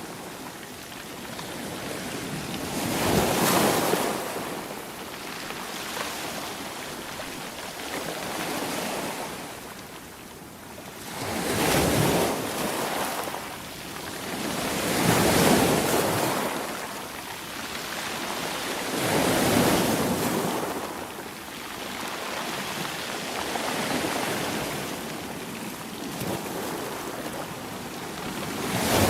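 Sea waves breaking on a shore. Four louder surges come a few seconds apart, each rising and washing out, with a steady wash of surf between them.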